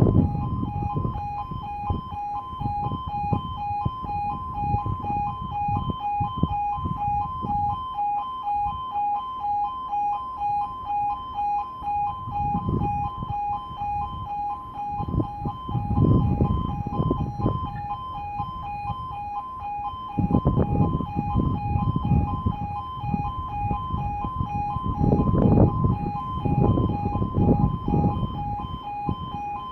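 E2S electronic alarm at a miniature-warning-light level crossing sounding continuously, a rapidly pulsing two-tone warble, the warning given while the red light shows that a train is approaching. Irregular low rumbling sits underneath.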